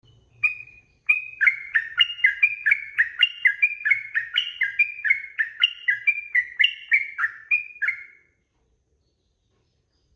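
Yellow-vented bulbul (trucukan) singing a long, fast run of bubbly notes, about three a second, alternating between higher and lower pitches. The run stops about eight seconds in.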